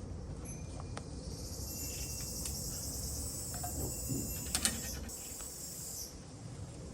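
Insects chirring in a high, finely pulsed trill that stops near the end, with a few sharp clicks about two-thirds of the way through.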